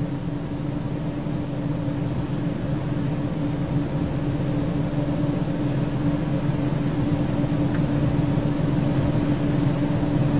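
Mercedes-Benz W212 E-Class engine idling during warm-up just after a cold start, heard from inside the cabin: a steady hum with one clear steady tone, the idle still a little above 1000 rpm.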